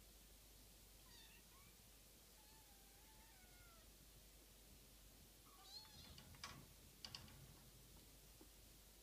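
Kittens mewing faintly in thin, high, wavering calls, louder for a moment about six seconds in, together with a few sharp clicks.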